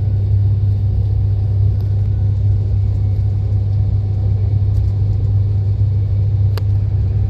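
Steady low rumble inside the passenger cabin of a Class 390 Pendolino electric train running at high speed, with a single brief click about six and a half seconds in.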